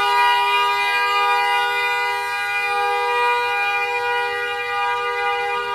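A car horn held down continuously: one steady two-note blare that never changes pitch.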